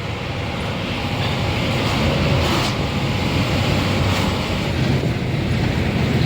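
Nissan Diesel UD440 crane truck's diesel engine running under way, heard from inside the cab with road and wind noise; the steady rumble grows a little louder over the first two seconds.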